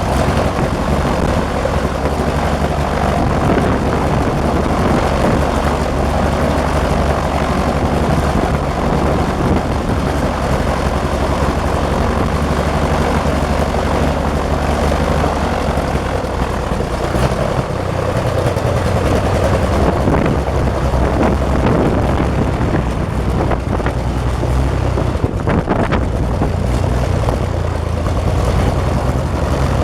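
Renault 6Q-10 inverted inline-six aero engine on a Nord 1002 running steadily with its propeller turning during a first ground run. Its engine note shifts about halfway through.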